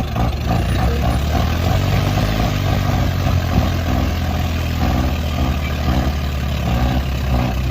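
Heavy diesel tractor engines running hard and steady, with a deep low drone, as the tractors pull against each other in a tug-of-war.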